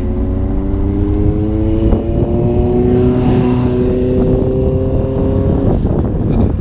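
Vehicle engine accelerating, its pitch rising steadily for about five and a half seconds over a low rumble.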